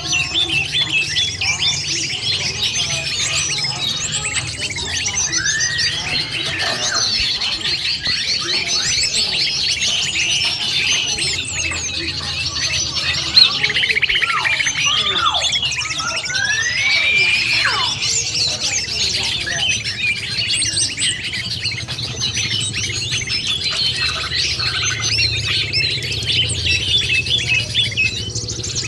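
A dense chorus of many small birds chirping and twittering without a break, mixed with the slurred whistles of greater green leafbirds (cucak ijo). This is a 'noisy birds' lure call for drawing in wild birds. There is one sharp click about 13 seconds in.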